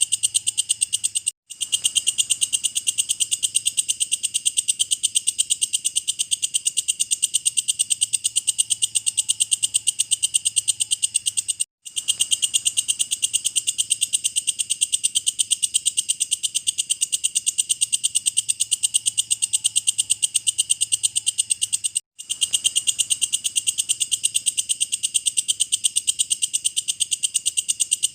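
Walang kecek (belalang kecek) insect calling: a steady train of fast, even, high-pitched pulses, several a second. The call drops out briefly three times, about ten seconds apart, where a looped recording restarts.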